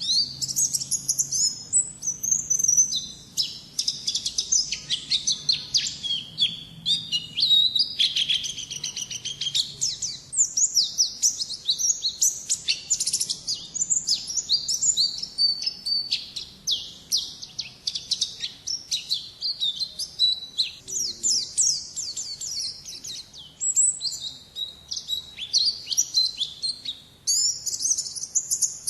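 White-eye (pleci) singing in the full 'ngalas' style: a fast, unbroken stream of high twittering notes and quick slurred trills, with no pauses.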